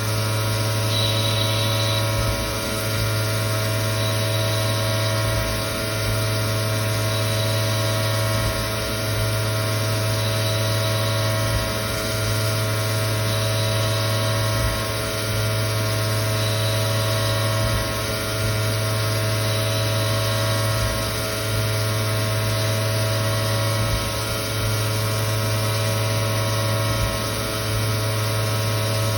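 Victor V-Turn 36 CNC lathe running: a steady machine hum with a strong low drone and several steady tones above it. The level dips slightly about every three seconds.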